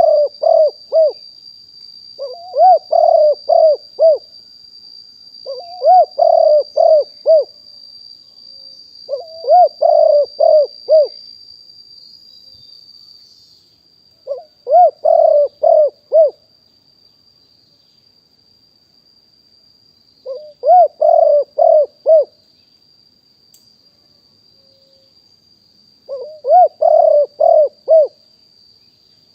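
Spotted dove cooing: seven phrases of four or five low coos each, spaced a few seconds apart. Under them runs a steady high-pitched insect trill.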